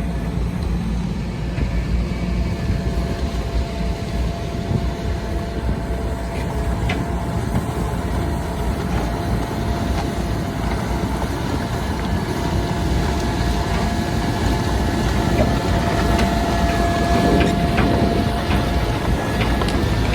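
Heavy diesel earthmoving machine running steadily with a low rumble and a faint steady whine, with a few sharp metal clanks, mostly in the last few seconds.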